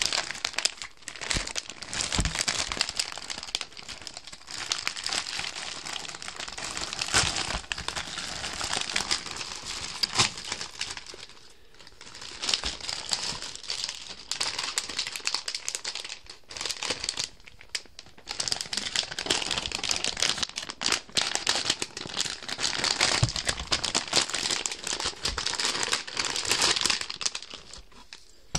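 Packaging crinkling and rustling as new shin guards are unwrapped, with irregular crackles and a few brief pauses.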